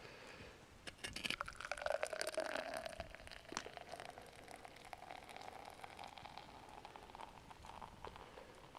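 Beer poured into a glass: a gurgling pour starts about a second in, its pitch rising slowly as the glass fills, with fizzing and scattered faint crackles.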